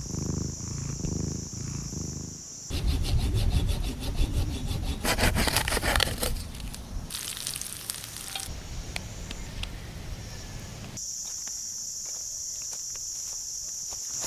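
Rhythmic scraping of wood, like sawing, in the middle stretch. Before and after it comes a steady high-pitched insect drone.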